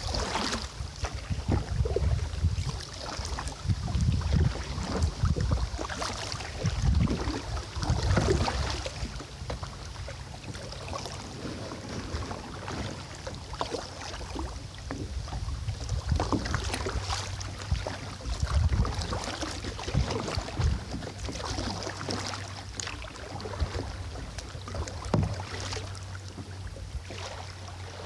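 Kayak paddle dipping and splashing in the river water in irregular strokes, with low wind rumble on the microphone, stronger in the first half.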